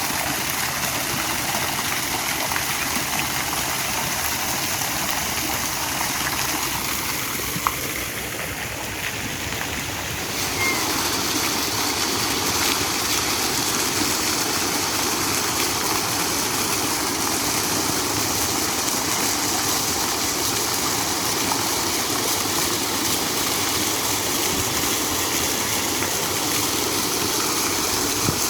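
Running water splashing and rushing steadily, like a stream or small waterfall. It dips briefly about eight seconds in and comes back a little louder about two seconds later.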